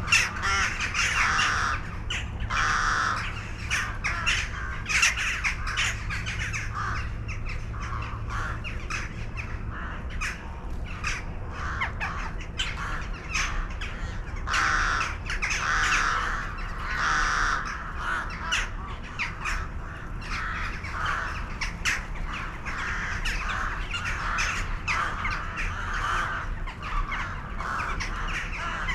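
Birds calling, many short calls repeating and overlapping throughout. A low steady hum sits underneath and stops about ten seconds in.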